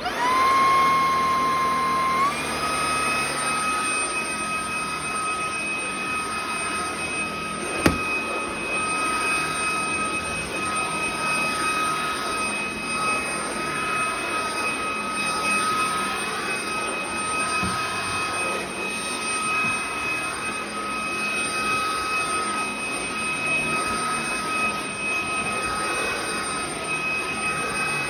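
BISSELL ICONpet Turbo cordless vacuum switched on: its motor whine steps up in pitch about two seconds in, then runs steadily as a high whine over rushing air. One sharp knock about eight seconds in.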